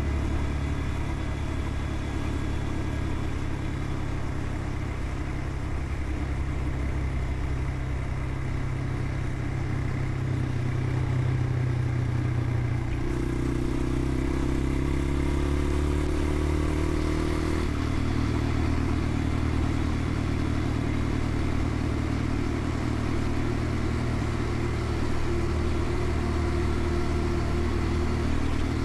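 Motorcycle engine running steadily while under way, with road and wind noise. Its engine note shifts twice about halfway through.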